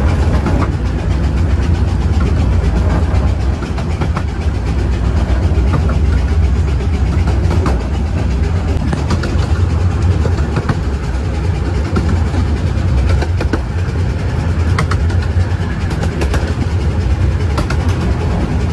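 Steady low rumble of a moving 15-inch-gauge miniature railway train, heard from on board, its wheels running along the rails with scattered small clicks.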